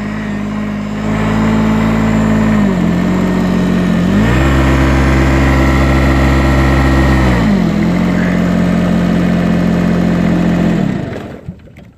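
Small diesel tractor engine idling, throttled up to a higher steady speed for about three seconds midway, then back to idle, and shut off about eleven seconds in.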